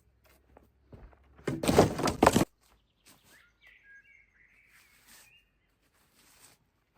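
A loud, dense burst of rapid crackling lasting about a second, then a bird chirping faintly for about two seconds.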